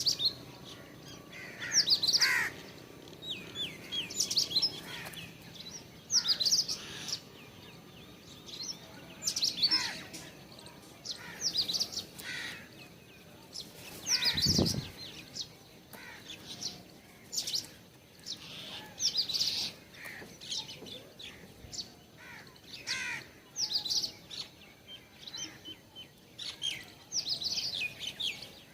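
Small songbirds chirping and calling in short bursts of quick, high notes, over and over. There is one dull thump about halfway through.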